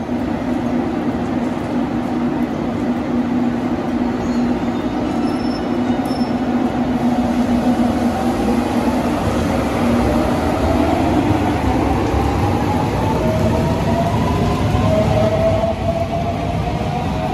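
Electric train running on the line, a steady hum at first, then from about halfway a motor whine that climbs steadily in pitch as the train accelerates.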